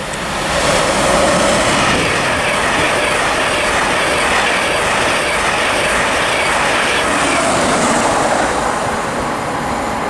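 An InterCity 225 express, hauled by Class 91 electric locomotive 91108 with driving van trailer 82222, passes through the station at speed. Its wheels and the air it pushes make a steady loud rush that builds in the first second and eases slightly near the end.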